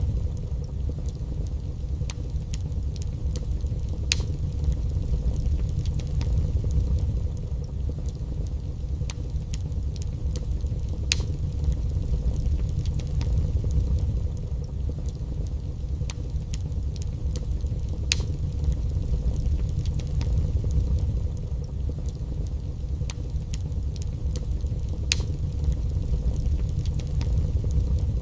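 Wood fire burning in a fireplace: a steady low rumble of the flames with scattered sharp crackles and pops from the burning logs every few seconds.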